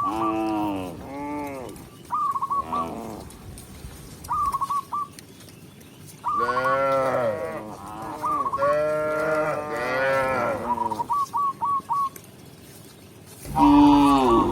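Cows mooing: several long moos, each rising and falling in pitch, the loudest near the end. Between them come short, rapid trilled calls, higher in pitch, repeated every few seconds.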